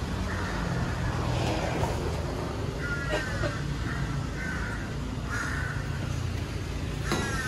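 A bird calls in short, repeated notes, about five spread over several seconds, over the steady low rumble of road traffic.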